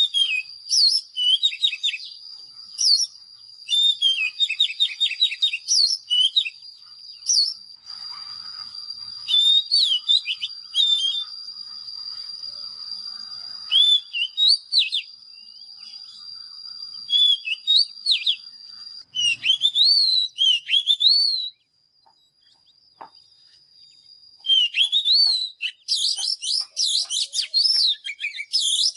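Oriental magpie-robin singing: a string of clear whistled notes, slurs and trills, over a steady high-pitched tone. The song stops for a couple of seconds past the middle, then resumes faster and denser.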